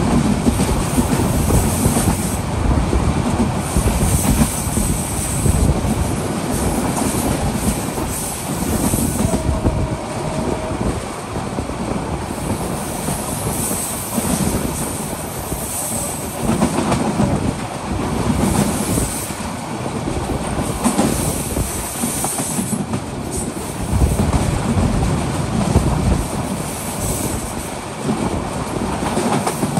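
Kurigram Express intercity passenger train running at speed, heard from beside the coaches. The wheels clatter rhythmically over the rail joints under a continuous rush of track and air noise that swells every second or two. A short steady whine sounds about ten seconds in.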